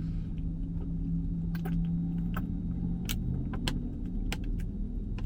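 Car engine running with a steady low hum inside the car, with scattered light clicks and rattles.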